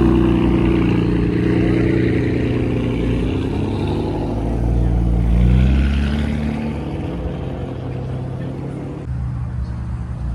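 Car engine running, with a rev that rises in pitch and gets louder about four to six seconds in, then settles back to a steady drone.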